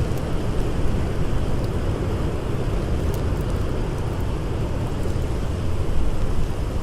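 Blizzard wind blowing steadily as a dense, low rushing rumble, with a few faint crackles from a campfire.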